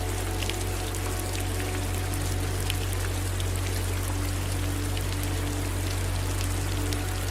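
Steady rain with individual drops pattering, over running water and a steady low rumble.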